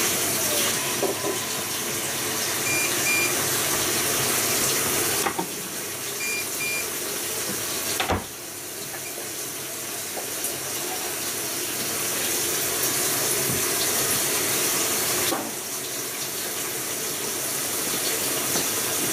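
Bosch Logixx washing machine taking in water for its first rinse: a steady rush of water, changing in strength a few times, with a sharp click about eight seconds in. The control panel gives two short beeps about three seconds in and two more about six seconds in, as option buttons are pressed.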